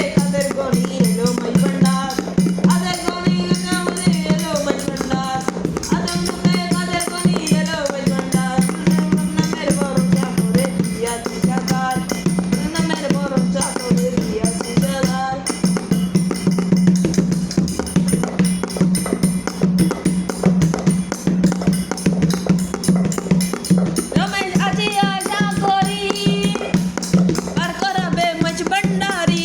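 Bengali devotional folk song: a sung melody over a steady low drone and a constant shaken, rattling percussion rhythm. The melody drops out for several seconds past the middle, leaving the drone and percussion, and comes back near the end.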